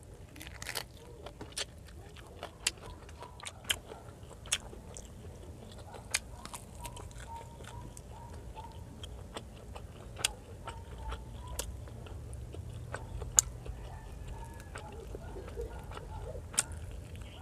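Close-up chewing and mouth sounds of someone eating fried fish and rice by hand: wet smacks and short sharp clicks scattered throughout, the loudest one about 13 seconds in, over a low steady hum.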